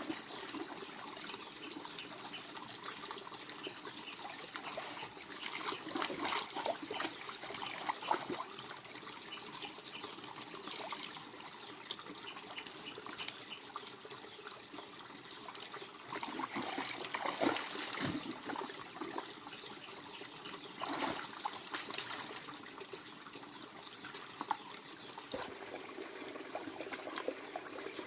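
Water trickling and splashing, with many small clicks and knocks of handling scattered through it.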